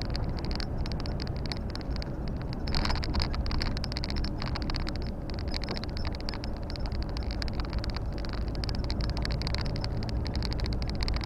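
Cab noise of a Volvo FH 460 truck on the move: the steady low drone of its 13-litre six-cylinder diesel and road noise, with dense, irregular ticking and rattling throughout.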